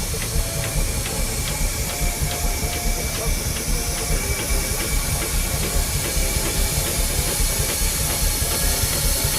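Steam engine running, with a steady hiss of steam over a low rumble and an even beat of sharp clicks about three a second.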